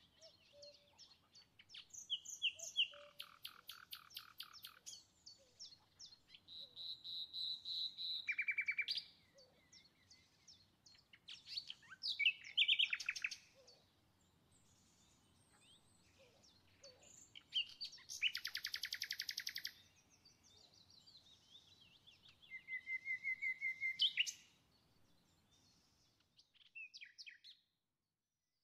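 A songbird singing in a series of phrases: fast trills and rapid runs of repeated notes, each a second or two long, with short pauses between them.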